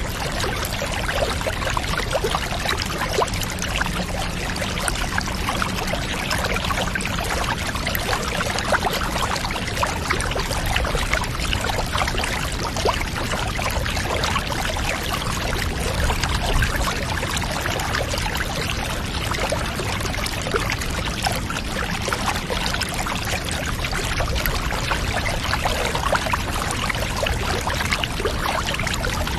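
Water running steadily, pouring and trickling without a break.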